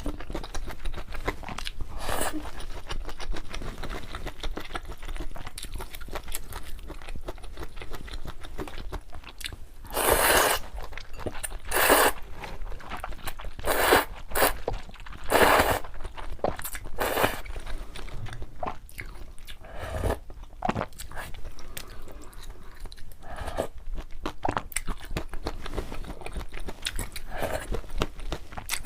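Close-miked eating of luosifen rice noodles: continual wet chewing and biting, with several louder slurps of noodles in the middle.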